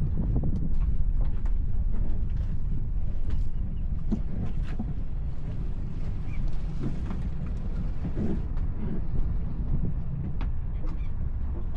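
Boat engine running with a steady low rumble, with scattered small knocks over it.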